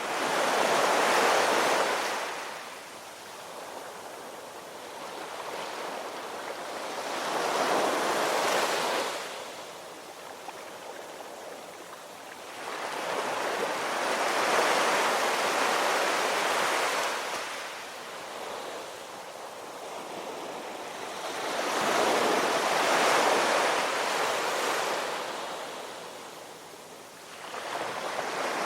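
Ocean waves breaking and washing in, four slow swells of surf noise about seven seconds apart, each rising to a peak and falling away, with another starting near the end.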